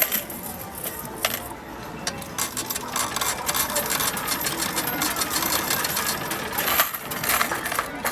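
Metal game tokens clattering and clinking in quick succession in a medal-pusher arcade machine.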